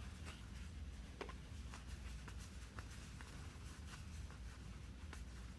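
Faint, irregular soft clicks and rubbing of trading cards being flipped through by hand, over a low steady hum.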